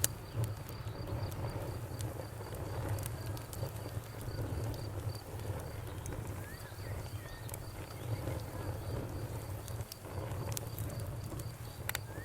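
Crickets chirping in an even, rapid pulse over a crackling bonfire. The fire gives scattered sharp pops and a low rumble of burning wood, with one loud pop right at the start and another near the end.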